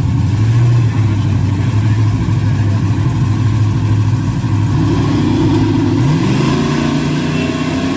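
Truck engine running steadily, then revving up about six seconds in, its pitch rising and holding higher.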